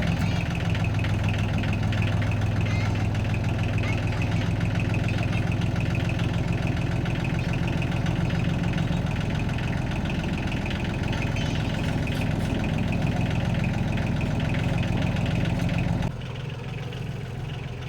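An engine running at a steady idle with an even, rapid pulse. About sixteen seconds in, it abruptly becomes quieter and thinner.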